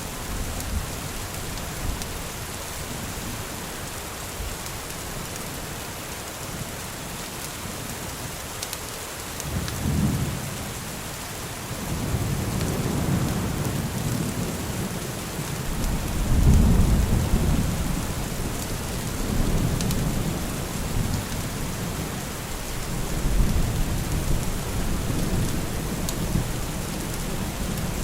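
Steady rain hissing throughout, with rolling thunder. A low rumble comes in about ten seconds in, then builds into long rolls that swell several times, loudest a little past the middle.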